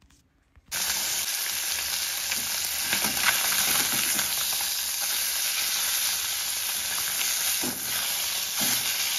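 Food frying and sizzling in a hot pan with a steady hiss. It starts suddenly about a second in, after a moment of near silence.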